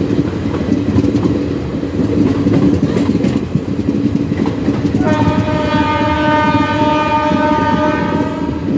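Running noise of a moving electric-line train heard from on board: a steady rumble of wheels on rails. About five seconds in, a train horn sounds one long, steady blast that lasts nearly four seconds.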